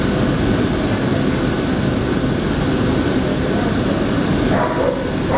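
Great Western Railway Class 800 bi-mode train moving past close by under diesel power: a steady, loud noise of its underfloor engines and wheels on the rails. A short pitched sound comes in about four and a half seconds in.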